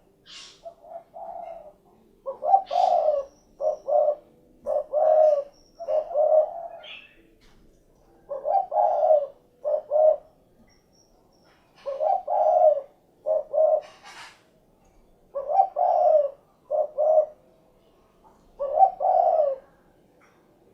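Spotted dove (derkuku, tekukur) cooing its 'cukurukuk kuk geruk' song: about five phrases of several low coo notes each, repeated every few seconds.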